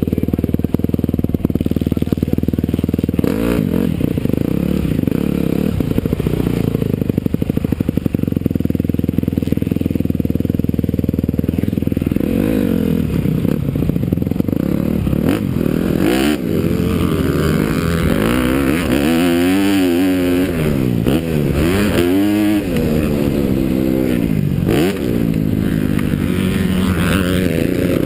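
Motocross bike engine running steadily at first, then from about halfway through repeatedly revving up and dropping back as the throttle opens and closes and gears change.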